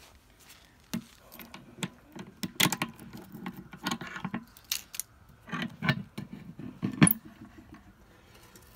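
Keys jangling among a run of metallic clicks and rattles as a padlock is unlocked and the metal housing of a WRRS mechanical railroad crossing bell is opened. The sharpest click comes about seven seconds in.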